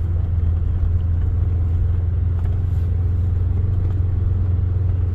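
Off-road vehicle engine and drivetrain running steadily while driving, a constant low drone with no change in pitch.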